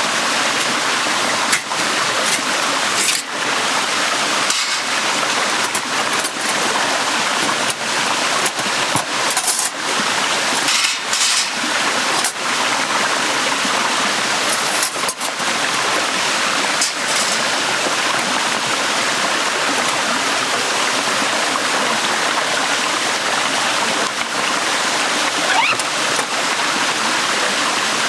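A shallow stream flowing and splashing over stones: a steady rush of water with small irregular splashes.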